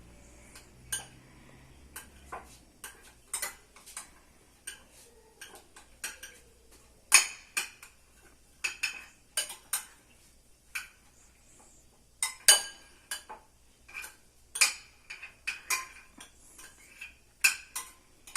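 A spoon stirring and mashing bread and raw egg in a dish, clinking against the side irregularly, one to three sharp clinks a second.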